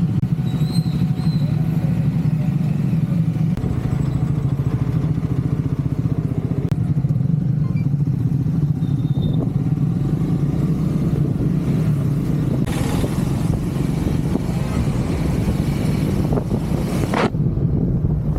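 Triumph Scrambler 400 X's single-cylinder engine running steadily. A rushing hiss swells up about two-thirds of the way through and cuts off suddenly a second before the end.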